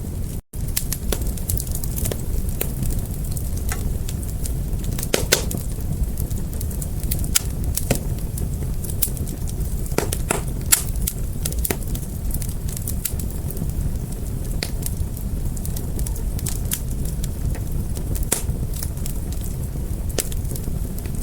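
Wood fire burning: a steady low rumble of flames with frequent irregular crackles and a few sharper pops. The sound cuts out for an instant about half a second in.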